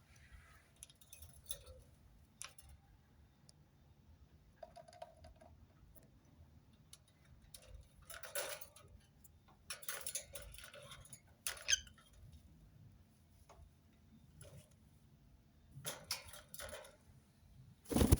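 Faint scattered clicks, taps and scratches, the small sounds of a pet rose-ringed parakeet moving about and working with its beak, with a brief rising squeak about twelve seconds in. A louder knock comes right at the end.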